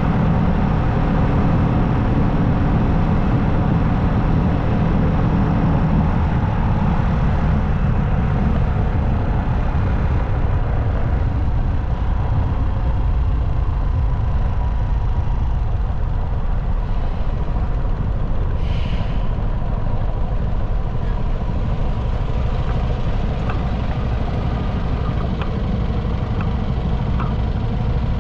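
Motorcycle engine running steadily at road speed with wind and tyre noise. The low rumble eases somewhat about twelve seconds in, and a short hiss comes about two-thirds of the way through.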